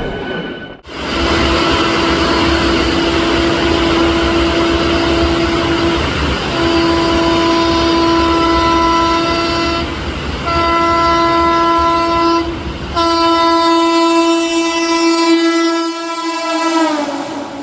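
Electric locomotive's air horn sounded in four long blasts over the low rumble of a fast-approaching train; near the end the horn's pitch drops as the train passes by.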